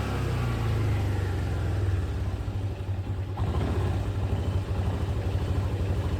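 Yamaha Grand Majesty 250 scooter's single-cylinder four-stroke engine idling steadily with an even pulsing beat.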